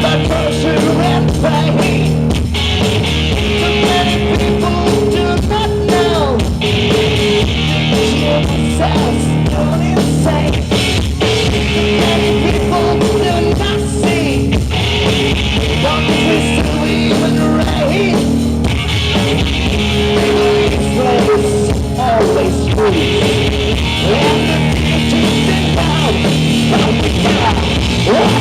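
Rock band playing live at full volume: electric guitars and drum kit, with singing.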